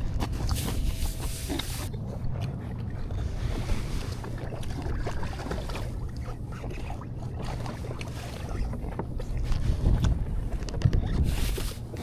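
Wind buffeting the microphone on a small boat on the water, with a steady low rumble and gusts at the start and near the end, and a few light knocks.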